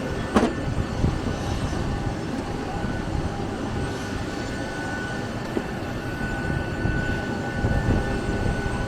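Steady cabin noise inside a parked Boeing 737-800: the low rumble and hum of the aircraft's air system with a faint whine. A single sharp click comes about half a second in.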